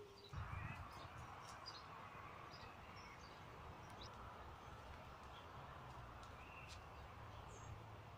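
Faint park ambience: small birds chirping sparsely and briefly over a steady low background hush.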